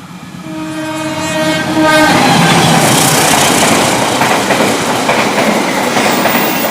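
A train sounds its horn for about a second and a half, a steady multi-tone blast, then passes close by: a loud, continuous rumble and rattle of the train's wheels on the rails.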